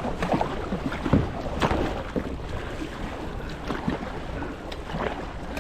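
Kayak paddle strokes dipping and splashing in the water at irregular intervals, with wind rumbling on the microphone.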